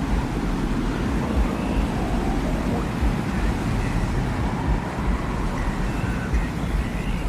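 Desert wind ambience: a steady, deep rumble of wind with faint, brief whistling tones drifting in and out above it.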